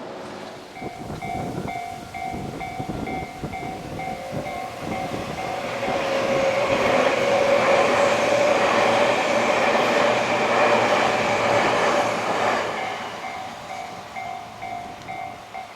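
Electric train passing, loudest for about seven seconds in the middle, with a steady whine under its running noise. Throughout, a railway level-crossing alarm rings in evenly repeated dings.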